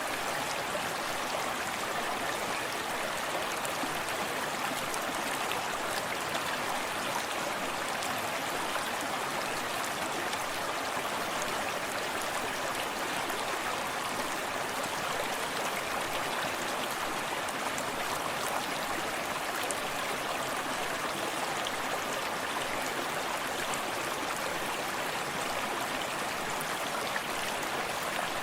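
Forest stream running steadily over rocks, a constant rushing with small splashes and gurgles throughout.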